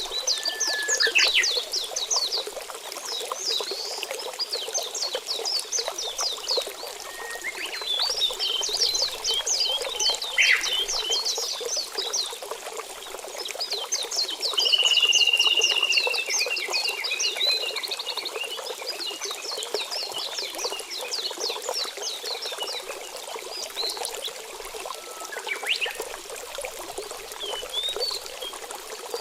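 Nature ambience: a steady trickle of running water under a dense chorus of small animal calls, each call a rapid train of short high chirps, with a longer whistle-like note about halfway through.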